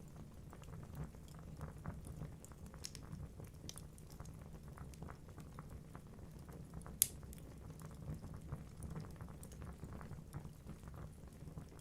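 Wood fire burning in a fireplace: a low steady rumble of flames with irregular crackles and small pops from the logs, and one sharper pop about seven seconds in.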